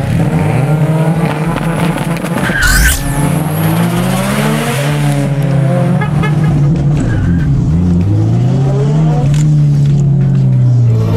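Turbocharged Subaru flat-four engines (EJ-series boxers with GT35 turbos) at full throttle in a drag run. The engine note climbs through each gear and falls back at the shifts, about three times.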